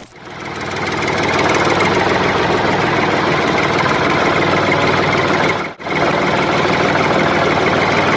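Tractor engine running steadily with a fast, even pulse. It breaks off for an instant about six seconds in and picks straight up again.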